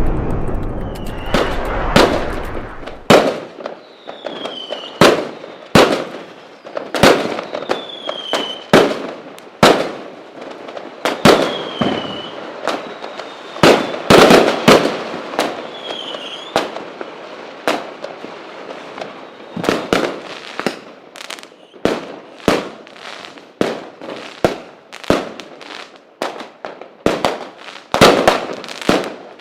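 Fireworks display: a long, irregular barrage of loud firework bangs, often several close together. A few short whistles fall in pitch among them.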